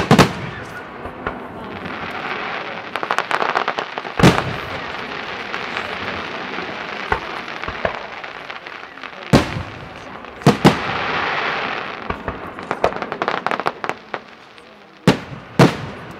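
Professional fireworks display: aerial shells burst with sharp bangs, about seven of them, two pairs in quick succession. Between the bangs there are spells of rapid crackling and hissing from crackle and glitter effects.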